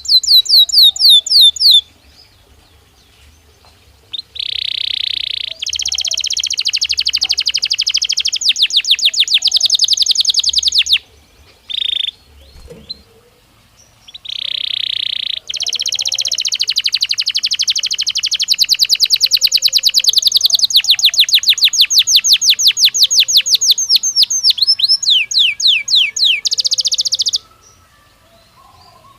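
Belgian canary singing in long phrases of fast, rapidly repeated high notes, with short pauses between phrases. Near the end of the last phrase the notes turn into quick downward sweeps before the song stops.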